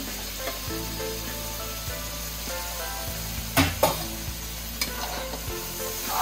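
Mustard masala paste frying in oil in a metal kadai, sizzling steadily while a steel spatula stirs and scrapes through it. This is the masala being fried (bhuna) before the potatoes go in. About three and a half seconds in, the spatula knocks sharply on the pan twice.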